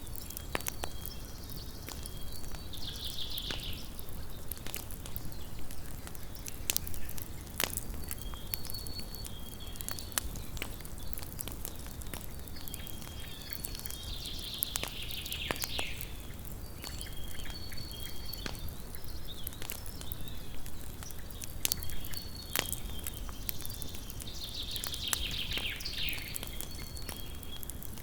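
Campfire crackling with scattered sharp pops, while a night creature gives a high buzzy trill three times, about every eleven seconds, with short high chirps in between.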